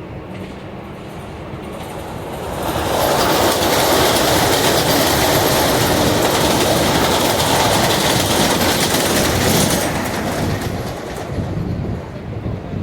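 Mumbai suburban local train running on the rails with a clickety-clack. The noise rises sharply about three seconds in, stays loud for about seven seconds, then falls back.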